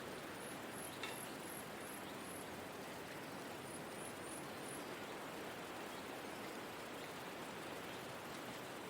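Forest ambience: a steady, soft rushing of wind or rain. Over it come two short runs of very high, quick chirps from a small bird, one of about six notes near the start and one of four notes a little later. There is a small click about a second in.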